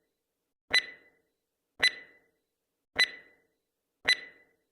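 Countdown timer sound effect: a sharp, short-ringing tick repeating a little slower than once a second, four ticks.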